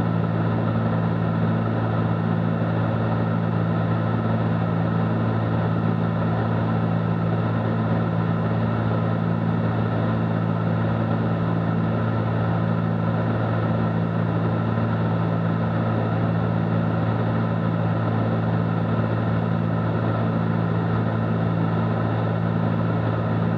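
Steady drone of a Cessna 310Q's twin piston engines and propellers in flight, an even hum that holds at one pitch without change.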